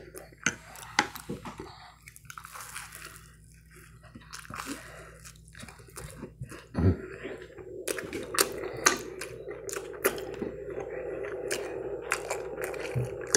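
Close-up chewing of a mouthful of food, with wet smacks and short clicks of the mouth. A faint steady hum comes in about halfway through.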